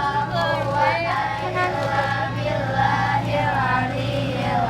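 Singing voices with music, over a steady low hum.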